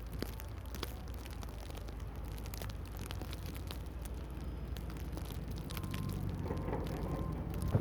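Storm precipitation, snow or sleet, ticking lightly and irregularly against surfaces over a steady low rumble of wind.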